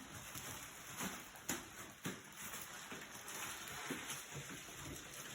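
Faint, irregular knocks and bumps from a water heater being moved on a hand truck.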